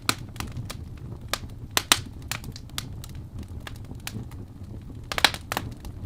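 Fireplace crackling: irregular sharp pops and snaps, a quick cluster about five seconds in, over a steady low rumble of the fire.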